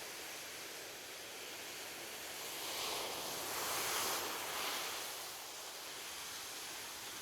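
Ocean waves on a beach: a steady wash of surf with one wave swelling and breaking about halfway through, then easing back.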